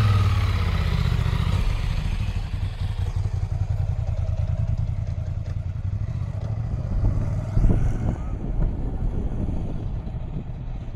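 Motorcycle engine running as it pulls away, its rumble slowly growing fainter.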